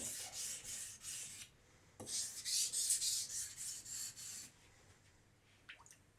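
Steel knife blade stroked quickly back and forth on a Naniwa Professional 400-grit whetstone, a rhythmic hissing scrape, while the area behind the edge near the tip is thinned at a low angle. The strokes come in two runs with a short break between them, stop about four and a half seconds in, and a few faint clicks follow.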